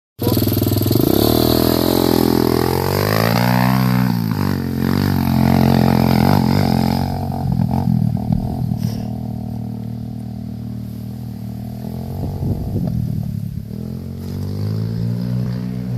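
Motocross bike engine revving, its pitch rising and falling several times over the first seven seconds. It then runs lower and steadier, and climbs again near the end.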